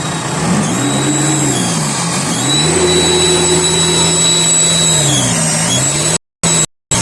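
VW Crafter 2.0 diesel engine revved twice, the second time held for a few seconds, with a high whistle that rises and falls with the revs. This is the sound of a failing turbocharger, which the mechanic judges no good. Near the end the sound cuts in and out several times.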